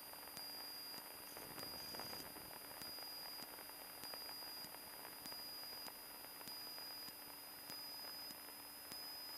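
Faint static hiss on the radio audio line, with a steady thin electronic whine and scattered light crackles.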